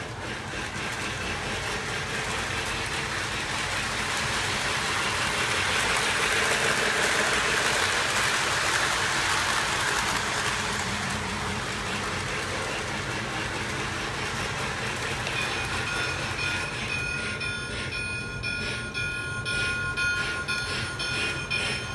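Lionel electric model train running around its track: a steady whir and rumble of the motor and wheels on the rails, growing louder as it comes near, loudest about seven to nine seconds in, then easing off a little.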